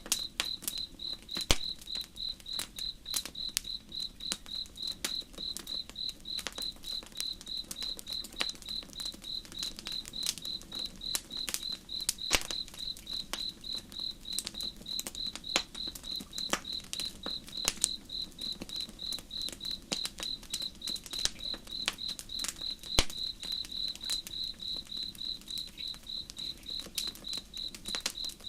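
Campfire crackling with irregular sharp pops over a cricket chirping evenly at about three chirps a second, with a low steady rush underneath.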